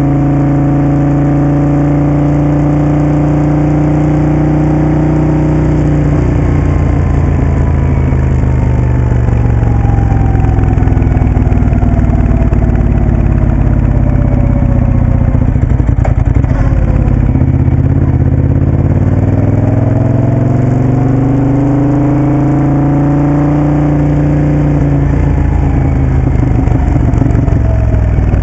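Moto Guzzi Café Sport's V-twin engine running as the bike is ridden: a steady note, then the pitch falls over about ten seconds and rises again before levelling off.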